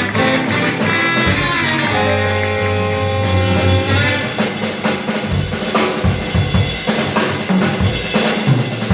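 Live small jazz band playing a swing tune. Held horn notes over the rhythm section, then from about four seconds in the drum kit takes over with busy fills and rimshots.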